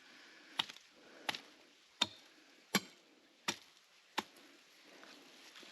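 A hand tool striking rock or hard ground seven times in an even rhythm, about one blow every 0.7 seconds, then stopping.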